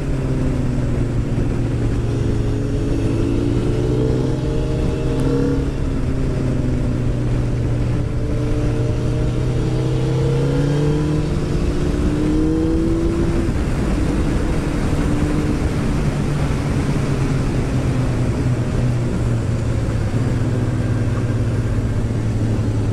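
Onboard sound of a Suzuki Hayabusa's inline-four engine cruising at a steady speed, its engine tone holding mostly level, over a constant rush of wind noise.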